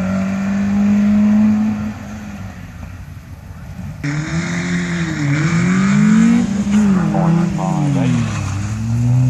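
A sprint car's engine held at steady revs, then fading. After an abrupt cut about four seconds in, a car engine rises and falls in pitch several times as it accelerates hard and changes gear.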